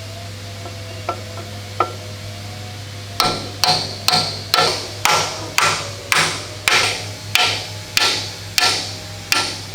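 Hammer blows on steel, steadily driving a pin home as an outrigger arm of a Type 88 75mm anti-aircraft gun is fitted. A couple of light taps come first, then from about three seconds in a run of about a dozen ringing metal strikes at roughly two a second.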